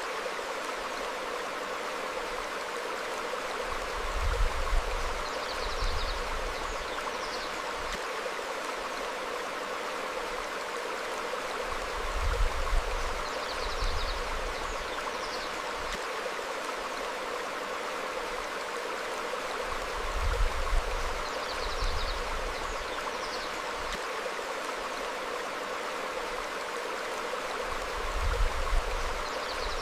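Steady rush of a shallow stream flowing over rocks, with a low rumble swelling about every eight seconds and faint short bird chirps coming at the same moments.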